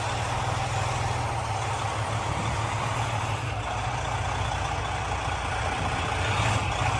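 Semi truck's diesel engine running steadily at low revs as the rig backs slowly toward the dock.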